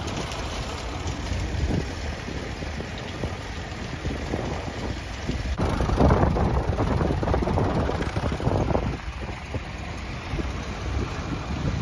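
Tractor engines running on the road, with wind buffeting the microphone; the engine sound grows louder for a few seconds around the middle, as if a tractor passes close.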